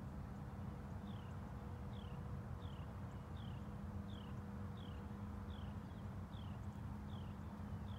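A bird repeating a short, high, downward-sliding whistle about every three-quarters of a second, starting about a second in, over a steady low hum.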